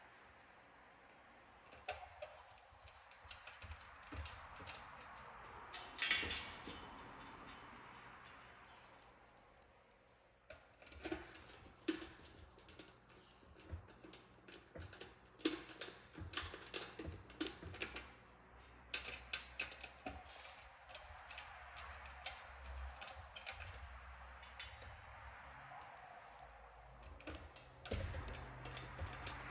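Irregular clicks, taps and small knocks of hand work on parts and tools, with one louder knock about six seconds in.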